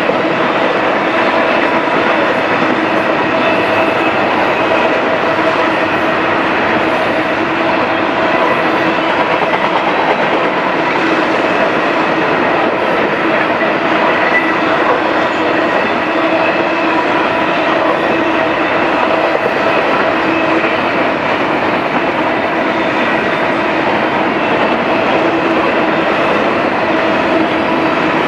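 BNSF intermodal train's flatcars and well cars, loaded with trailers and double-stacked containers, rolling past steadily, with a continuous, even noise of steel wheels on the rails.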